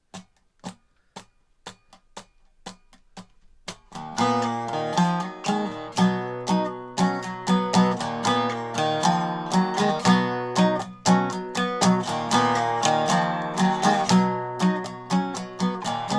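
Instrumental intro on a strummed guitar: about four seconds of light, evenly spaced clicks, roughly two and a half a second, then full strummed chords over a repeating bass note in a steady rhythm.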